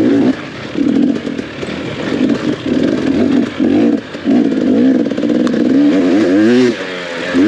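Off-road dirt bike engine revving in repeated short bursts as the throttle is opened and closed, the pitch climbing and falling again near the end.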